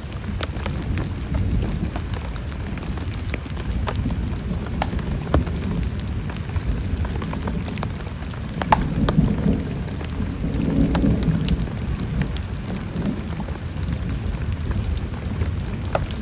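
Heavy rain falling steadily, individual drops ticking sharply on a nearby surface, with a low roll of thunder swelling and fading from about nine to twelve seconds in.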